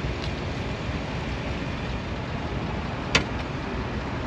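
Steady low outdoor rumble with one sharp metallic click about three seconds in, from the Cadillac Escalade's hood latch as the hood is opened.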